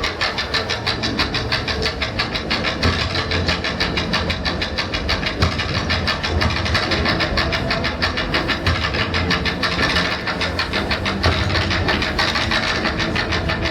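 Live percussion ensemble playing a fast, even drum pattern, with low sustained pitches beneath the strokes.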